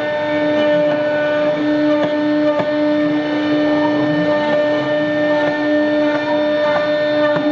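CNC router spindle whining at a steady pitch while cutting plastic corrugated board, with a few light clicks and a low shifting hum from the machine underneath.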